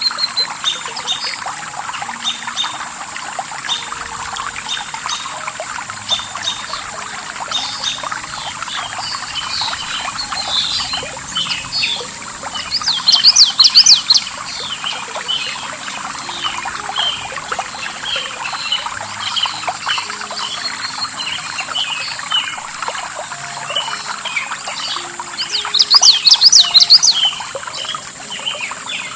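Flowing water splashing steadily under many small birds chirping. A bird sings a louder burst twice, about halfway through and again near the end.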